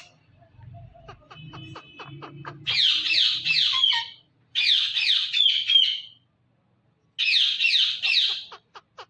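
Pet green parrot calling in three loud bursts of rapid, repeated down-sweeping squawks, each about a second and a half long, with short pauses between. A run of light clicks comes before the first burst.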